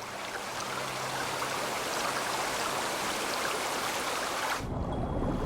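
Heavy torrential rain: a dense, even hiss of a downpour. It cuts off abruptly about four and a half seconds in, giving way to a low rumble.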